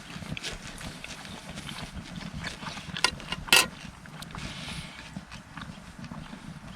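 Scattered clicks and knocks of hard objects being handled, with two loud sharp strikes about three seconds in.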